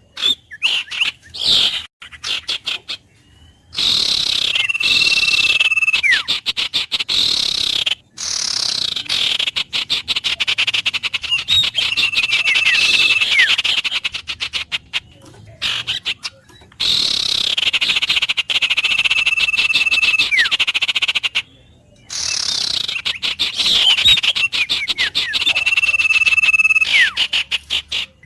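Wild birds calling: a rapid pulsing chatter with whistled notes, one held high whistle and quick falling slurs. The same phrase recurs about every eight seconds, broken by a few brief gaps.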